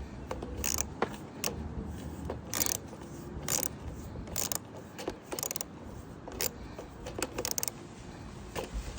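Irregular metallic clicks and clinks of a 10 mm wrench working the carburetor mounting nuts on a lawn mower engine, some with a short ring.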